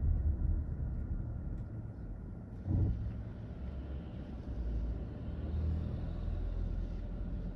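A vehicle driving on a city road: a steady low rumble of engine and tyre noise, with a brief bump or thump a little under three seconds in.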